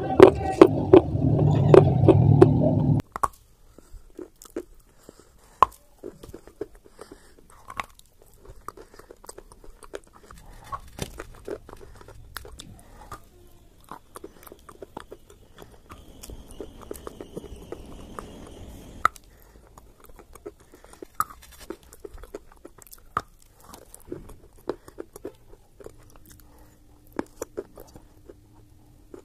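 Close-up crunching and chewing of khadi clay, a chalk-like edible clay: short, sharp bites and crunches at irregular intervals. The first three seconds are covered by a loud, muffled low sound that cuts off suddenly.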